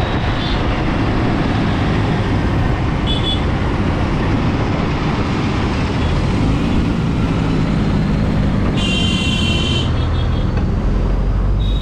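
Steady rumble of wind, road and traffic noise heard from a moving scooter in city traffic. A short high beep comes about three seconds in, and a longer horn-like honk of about a second comes near nine seconds.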